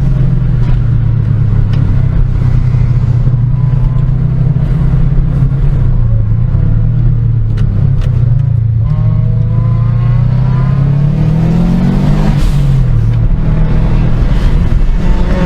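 Car engine running steadily under way. Its note climbs as the revs rise, then drops sharply as the revs fall away, and it settles back to a steady note.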